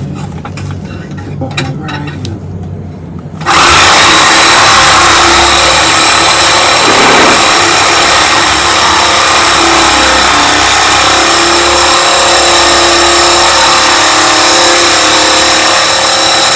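Reciprocating saw (sawzall) starting up about three and a half seconds in and cutting through a truck's steel exhaust pipe, a loud steady grinding buzz with a metallic ring, after a few seconds of quieter handling noise.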